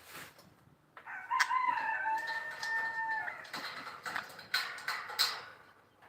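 A rooster crowing once, a single long call of about two seconds starting about a second in, followed by a few short sharp chirps or clicks.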